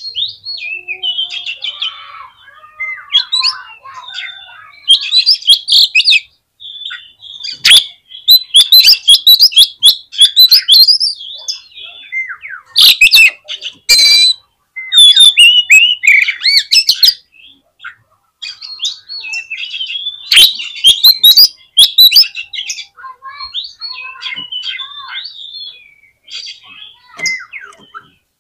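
Oriental magpie-robin (kacer) singing a loud, varied song of whistled phrases mixed with rapid harsh rattling notes, the densest rattles around a third and halfway through.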